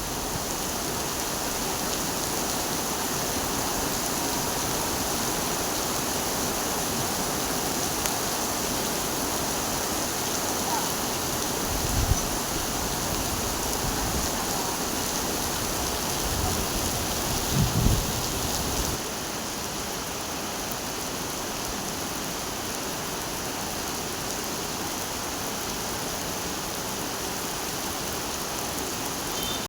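Heavy rain falling steadily, an even hiss of downpour throughout. A few brief low thuds come about halfway through, and the level drops slightly about two-thirds of the way in.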